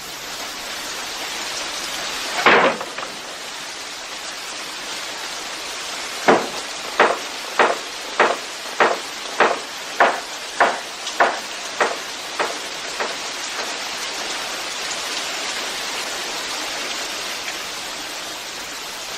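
Steady rain-like hiss. One loud knock comes about two and a half seconds in, then a run of about a dozen evenly spaced knocks, nearly two a second, growing fainter.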